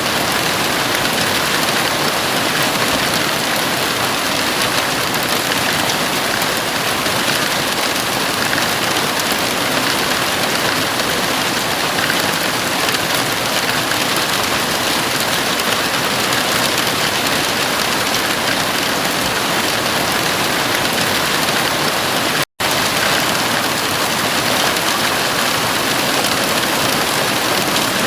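Heavy rain falling steadily on a house roof, an even hiss of water with no let-up. It cuts out for a split second late on, then carries on as before.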